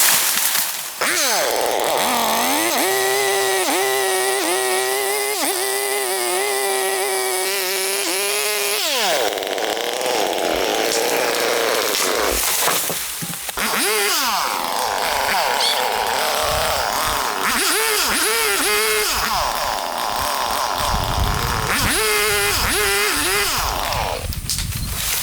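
Chainsaw engine revving in several bursts, its pitch holding, wavering, then dipping and rising again.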